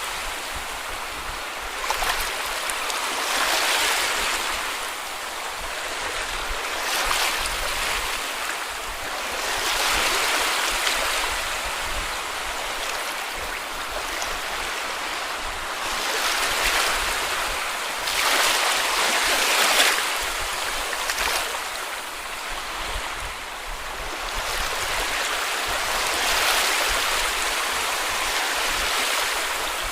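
Small sea waves washing onto a beach, the hiss of surf swelling and falling back every few seconds.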